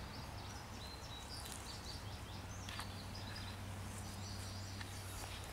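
Birds chirping repeatedly in short high notes over a steady low hum.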